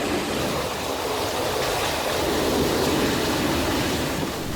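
Strong storm wind blowing, a steady rushing noise that swells a little past the middle.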